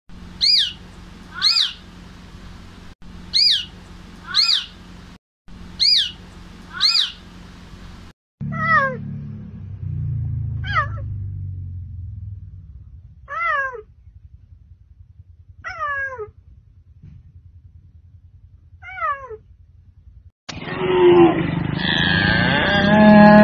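A cat meowing five times, a couple of seconds apart, each meow falling in pitch. Before the meows come several short, very high-pitched calls in pairs, and near the end a louder, noisier animal sound cuts in.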